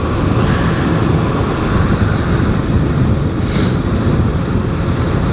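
Steady wind rush over the microphone of a motorcycle being ridden, with engine and road noise underneath; a brief higher hiss about three and a half seconds in.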